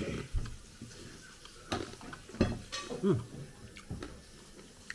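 Scattered clicks and knocks of utensils against dishes and plates while eating.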